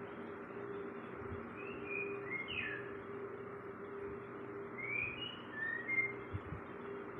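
A kept songbird giving short, sliding whistled chirps in a few scattered groups, as it starts to come into song. A steady low hum runs underneath.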